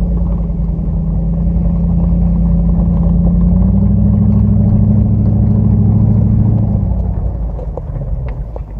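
Dodge Ram pickup's engine pulling the truck up a steep dirt trail, running steadily under load. The engine note rises slightly about three and a half seconds in, then eases off and drops in level near the end.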